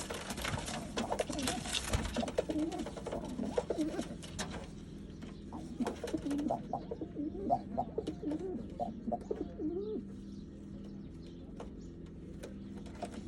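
Pigeons cooing again and again in short rising-and-falling calls, with a burst of scuffling and flapping noise for the first four seconds or so as they fight.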